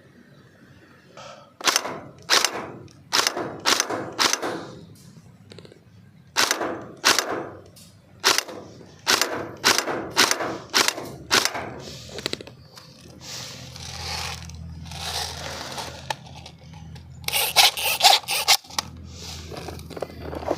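Airsoft guns firing sharp single shots, about two a second, followed by a rapid burst near the end.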